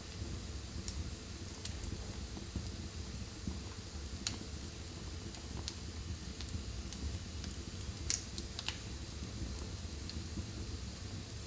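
Wood fire in a fireplace crackling: a low steady rumble of the flames with a few sharp, scattered pops, the loudest about eight seconds in.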